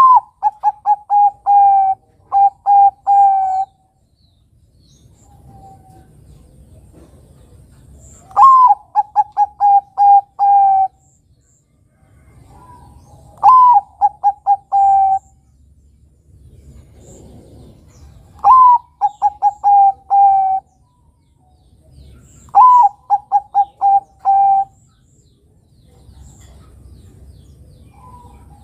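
Zebra dove (Bangkok-strain perkutut) singing its cooing song. Each phrase starts on a higher note that drops, then runs into a quick string of short, even coos. Five phrases come in turn, about every four to five seconds.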